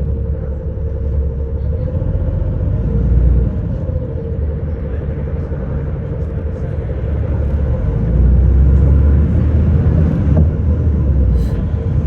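City bus running, heard from inside the cabin: a low engine and road rumble with a faint steady whine. The rumble grows louder twice, about three seconds in and again for a couple of seconds past the middle.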